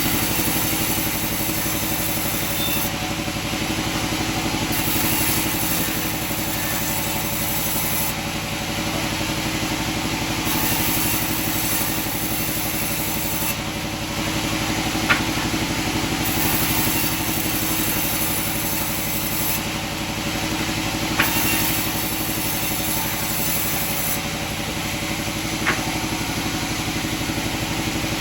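Sawmill machinery running steadily with an engine-like hum, with three short sharp knocks in the second half.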